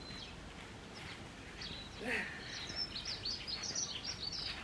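Small birds chirping and twittering over faint outdoor background noise, with a quick run of high chirps in the second half.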